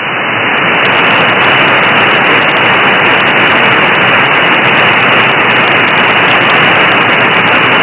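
Loud, steady hiss of radio static from an SDR receiver left on an open channel after a voice transmission has signed off, swelling over the first second and then holding even.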